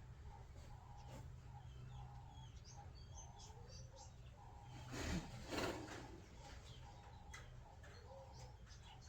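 Small birds chirping faintly in the background, with two short bursts of noise just past the middle.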